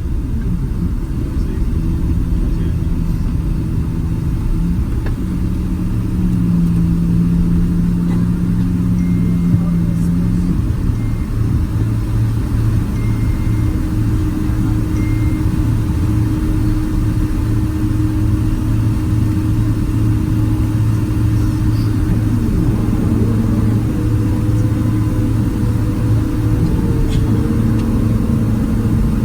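Boeing 767-300ER heard from inside the economy cabin: a steady low rumble of jet engines and airflow, with several engine hums that shift in pitch and come and go.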